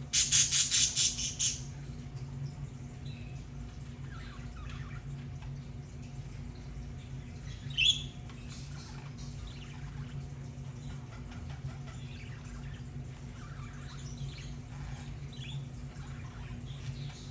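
Budgerigars chattering: a loud run of rapid squawks in the first second and a half, then soft scattered chirps and warbles, with one sharp call about eight seconds in, over a steady low hum.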